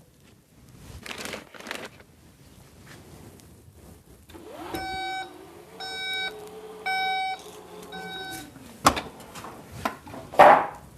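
Four electronic beeps at one fixed pitch, each about half a second long and coming about once a second. Two sharp knocks follow near the end, the second the loudest.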